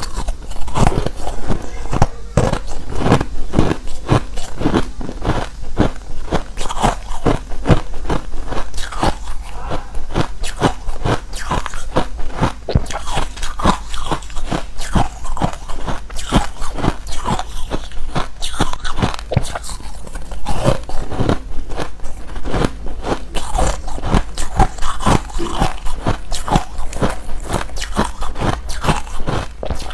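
Close-miked biting and chewing of hard refrozen crushed ice: a fast, irregular run of sharp, loud crunches, several a second.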